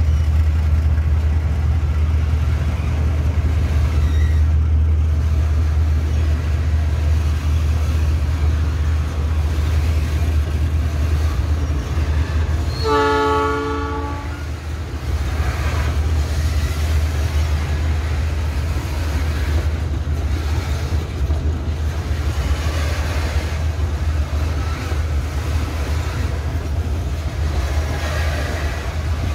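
A loaded train of TPD cement tank wagons rolling slowly past, with a steady low rumble. About 13 seconds in, a train horn sounds for about a second.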